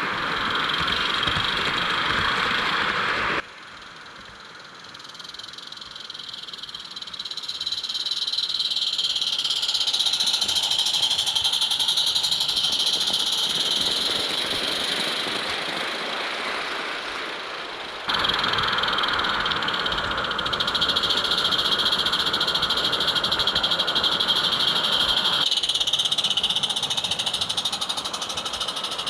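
Roundhouse Katie live-steam garden-scale locomotive running on its track, with a steady high-pitched chirring behind it. The sound drops suddenly about three seconds in, builds back up over several seconds, and jumps up again after about eighteen seconds.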